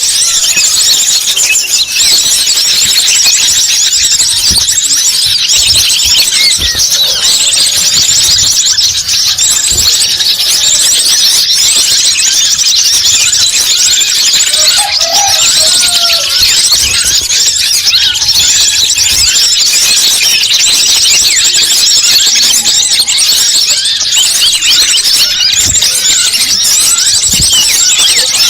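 Small birds chirping in a loud, dense, high-pitched chorus of rapid, overlapping short chirps that never lets up. This is a bird-lure (pikat) call recording, played to draw wild birds in.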